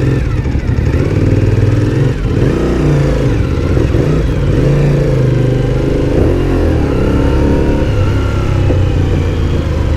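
Twin-cylinder motorcycle engine running loud under way, its revs rising and falling repeatedly as the rider opens and eases the throttle.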